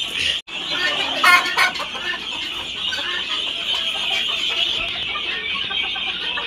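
A large flock of farmed poultry calling and clucking together in a dense, continuous chatter, with one louder call standing out about a second and a half in. The sound cuts out briefly about half a second in.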